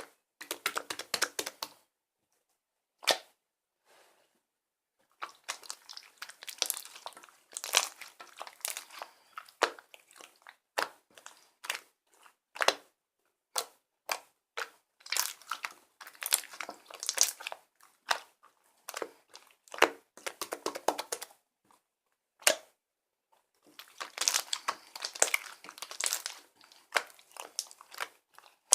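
Mixed slime being pressed, squished and stretched by hand, giving off irregular clusters of sticky crackling and popping clicks, with a pause of a few seconds near the start.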